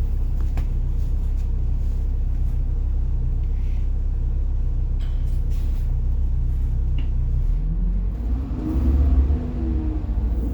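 The rear-mounted diesel engine of a 1990 Blue Bird All American school bus, heard from inside the bus, idles with a steady low rumble. About eight seconds in it revs up with a rising pitch as the bus accelerates.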